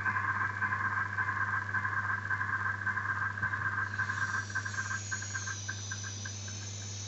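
Homemade oscillator noise box giving out a fluttering electronic squeal of high tones over a steady low hum. About halfway through, a higher whistling tone comes in and the lower tone breaks into pulses that slow down.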